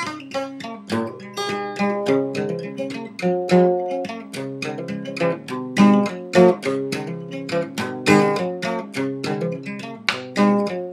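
Acoustic guitar music: a quick run of plucked notes with no singing.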